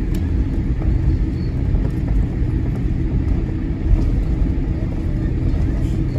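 Steady low cabin rumble of a Boeing 787-8 Dreamliner taxiing, with the engines at idle and the wheels rolling over the taxiway.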